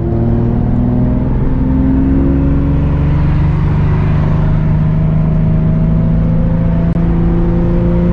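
Car engine running steadily under load, a loud, even drone whose pitch rises slightly over the first few seconds and then holds.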